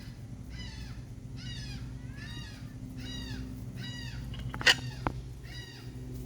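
A gull calling over and over, a rapid series of arching, pitched cries about one a second. Two sharp clicks come about two-thirds of the way through, the first one loud.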